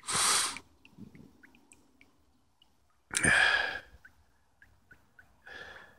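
A man breathing out hard twice, about three seconds apart, with a softer breath near the end and faint short ticks in between.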